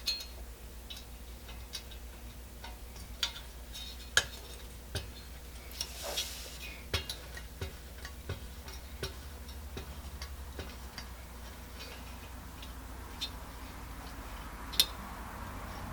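Scattered light clicks and taps of the metal Coleman 502 pocket stove being handled while its stalled fuel flow is troubleshot, with one brief hiss about six seconds in.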